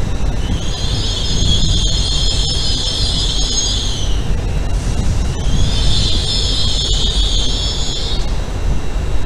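Pair of coupled GWR Class 800 intercity trains rolling slowly with a steady low rumble, and two spells of high-pitched squealing from the train, each about three seconds long.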